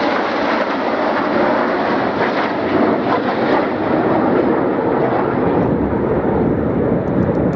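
Red Arrows BAE Hawk T1 jet trainers flying in close formation, their jet engines making a steady, loud roar.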